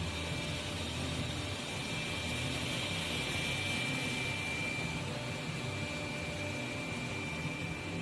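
Dreame D20 Pro Plus robot vacuum running, a steady motor noise with a low hum under a thin, steady high whine.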